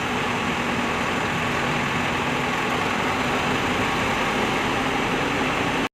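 Truck crane's engine running steadily, a continuous heavy mechanical drone that cuts off abruptly at the end.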